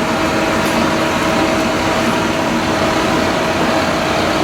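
A fire truck's diesel engine running steadily, with a constant hum.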